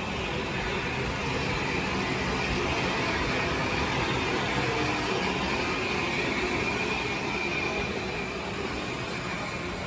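Steam train running on the line: a steady rumble with a hiss-like band on top, swelling a little in the middle and easing toward the end.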